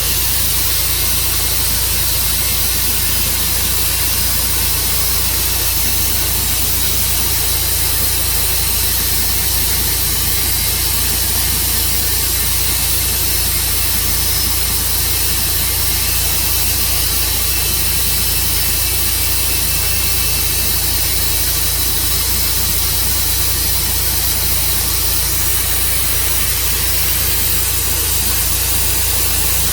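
Tru-Cut sawmill running steadily, its engine and saw going without change in pitch or level, as it cuts through an elm log.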